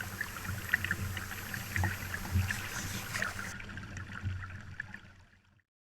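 Water trickling and splashing against a small sailing dinghy's hull as many small irregular splashes over a low rumble. It fades out about five seconds in.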